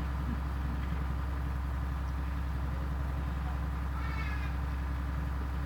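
Steady electrical hum and hiss of an old recording, with a brief high-pitched cry about four seconds in.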